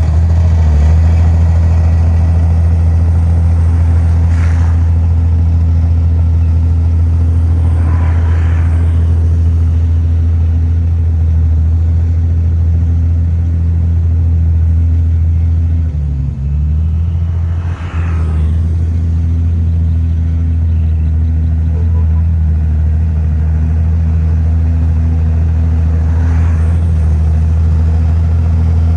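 Heavy diesel engine of earthmoving machinery running steadily with a deep hum, dipping briefly about sixteen and eighteen seconds in. Occasional short hisses or scrapes sound over it.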